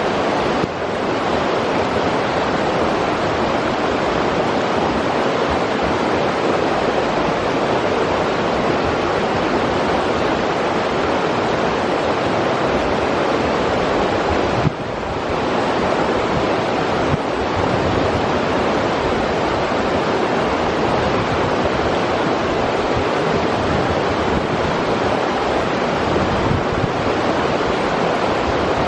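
Forest river water rushing in a steady, unbroken flow, dipping briefly in level about fifteen seconds in.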